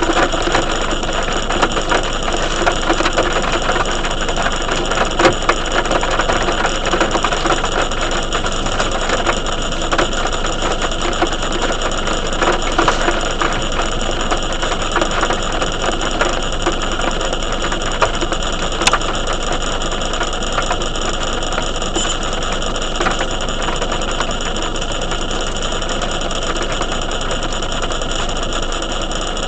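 Heavy rain falling steadily: a dense, even patter of many fast drop impacts, with a few sharper ticks standing out.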